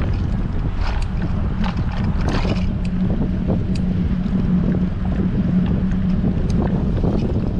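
Strong wind buffeting the microphone of a bicycle-mounted action camera while riding, a steady low rumble with scattered light clicks and rattles.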